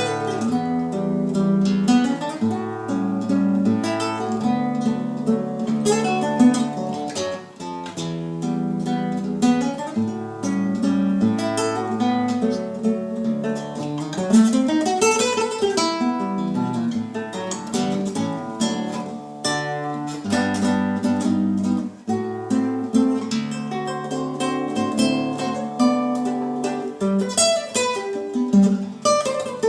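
Solo acoustic guitar playing a fingerpicked Brazilian choro piece: a steady bass line under quick melody notes and strummed chords, with a sweeping run of notes about halfway through.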